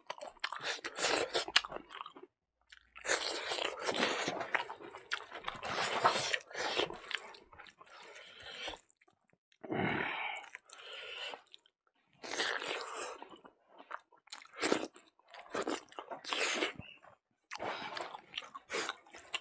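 Close-miked chewing and crunching of food in a man's mouth, in bouts of one to several seconds broken by short pauses as he takes each handful.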